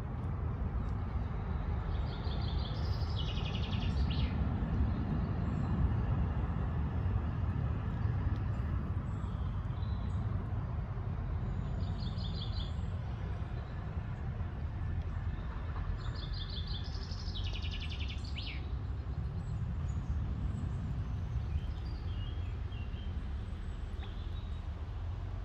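A songbird singing three short phrases of rapid repeated high notes over a steady low outdoor rumble.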